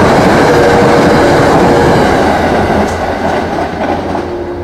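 NJ Transit express commuter train passing through the station at speed without stopping, its wheels and cars running loud over the rails. The sound fades after about three seconds as the last cars pull away.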